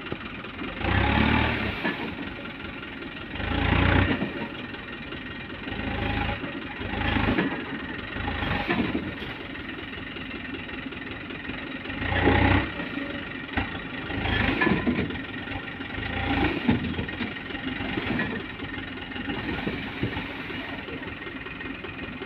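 Diesel engine of a heavily loaded sand dump truck running, with the engine noise surging louder for a second or so about every two seconds, as if under repeated throttle.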